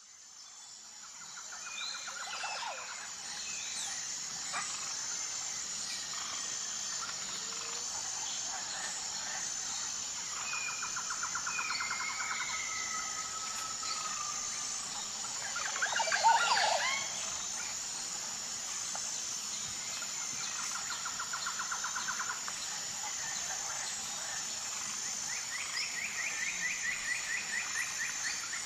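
Outdoor bird chorus over a steady, high, pulsing insect drone. Short trilled bird calls come back several times, and one louder, more complex bird call sounds a little past halfway.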